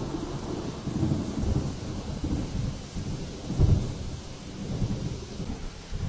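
Thunderstorm sounds: low rumbling that swells and fades several times over a steady rain-like hiss.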